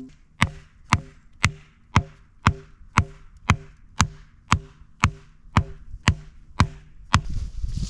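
A run of sharp, evenly spaced knocks, about two a second, each with a brief low ring, stopping about seven seconds in; a steady rushing noise follows near the end.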